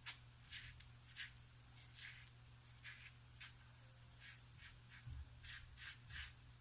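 Double-edge safety razor scraping through lathered stubble in short, quick strokes, about ten faint scrapes with a pause in the middle.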